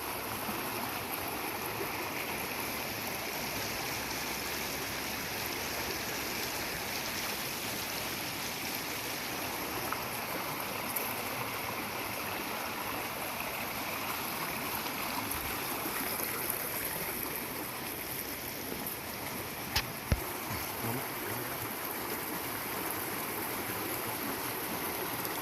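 A stream running steadily, with two short sharp clicks close together about twenty seconds in.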